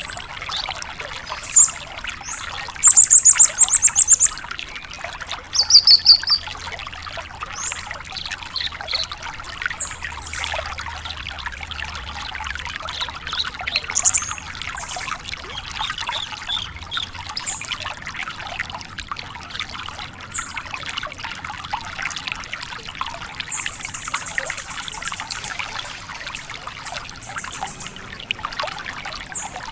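Branjangan (Javan bush lark) singing: loud, very high, rapid trills and scattered chirps, the loudest a couple of seconds in and again at about 3 to 4 s, with a long trill near the end. Steady trickling water runs underneath.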